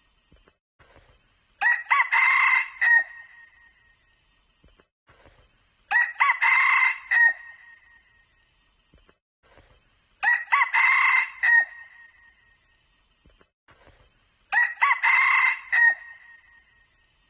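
Red junglefowl cock crowing four times, one call about every four seconds, each crow a clear call of about a second and a half, the repeats so alike that they appear to be the same crow looped.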